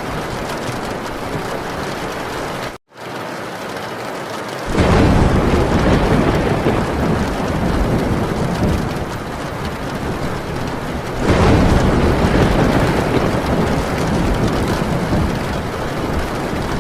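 Heavy rain drumming steadily on a metal tin roof, with thunder rumbling in low and loud about five seconds in and swelling again about eleven seconds in. The sound drops out for a split second about three seconds in.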